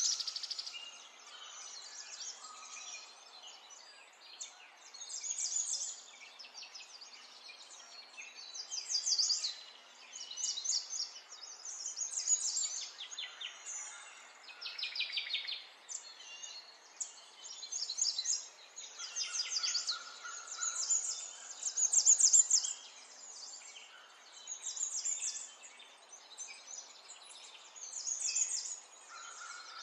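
Small songbirds chirping and trilling in short, high phrases of rapid repeated notes that come every second or two. The loudest bursts are at the very start and about 22 seconds in.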